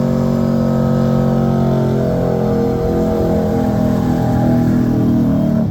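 Truck engine running hard at high revs, holding steady for about two seconds, then dropping slightly in pitch and wavering as the revs change.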